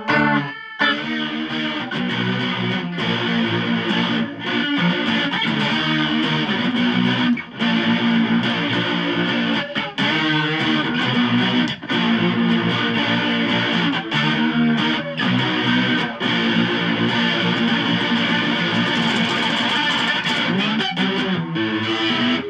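Distorted electric guitar playing grunge-style strummed chords, with a few brief stops between phrases.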